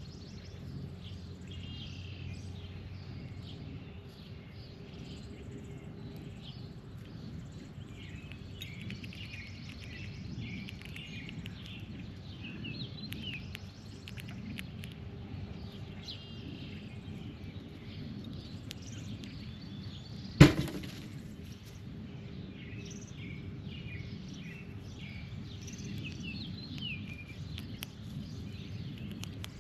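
Wild birds chirping and calling on and off over a steady low background rumble, with one sharp knock about two-thirds of the way through.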